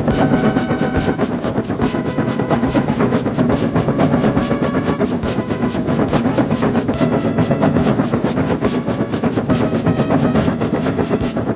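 Train running along the track with a fast, even clickety-clack rhythm.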